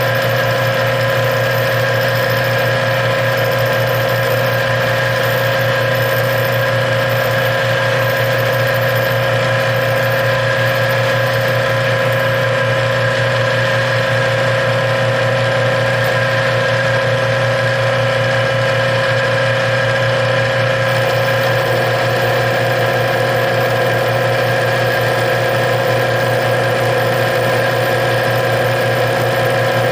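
Small metal lathe running steadily, its motor and drive giving an even hum with a few fixed tones while it turns a piece of aluminum stock.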